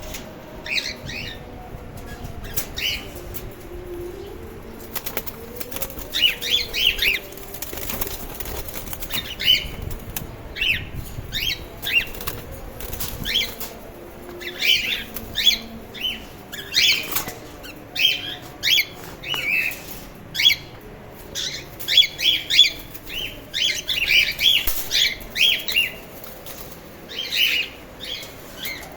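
Cockatiels in a breeding colony, giving many short, repeated chirping calls that grow busier after the first few seconds, with wing flapping between them.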